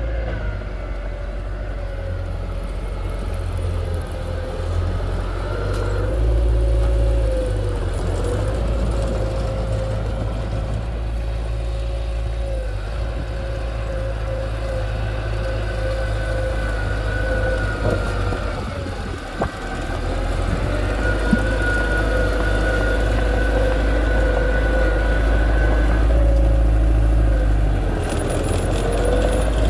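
Heavy equipment diesel engine running steadily under work, its pitch wavering a little with a steady whine over a deep rumble; the sound dips briefly about two-thirds of the way through and shifts pitch near the end.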